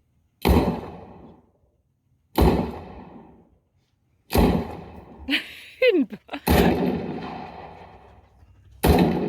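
A string of five gunshots, about two seconds apart, each echoing away over about a second. A brief falling cry comes between the third and fourth shots.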